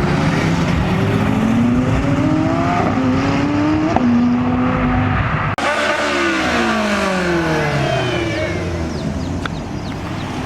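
A sports car engine accelerating hard, its pitch rising through a gear change and then holding. After an abrupt break about halfway through, an engine's pitch falls steadily as a car passes and pulls away.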